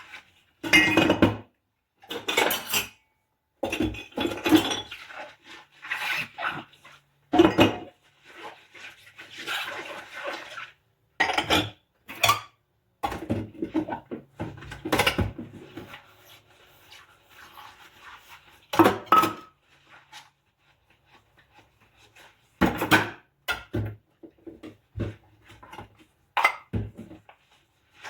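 Dishes and cutlery being hand-washed: crockery and utensils clinking and knocking together, with stretches of scrubbing. The sounds come in separate bursts with short silent gaps between them.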